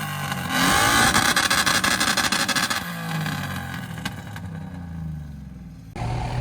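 Car engine revving hard with a loud rasping hiss, then dying away over the next few seconds; the sound cuts off abruptly near the end.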